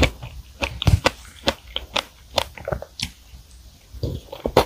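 Close-miked chewing of a large mouthful of soft chocolate sponge cake with cream: irregular clicking mouth sounds a few times a second.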